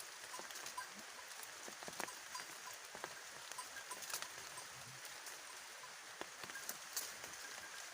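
Faint, steady rustling and crackling of leafy foliage, with scattered sharp ticks throughout.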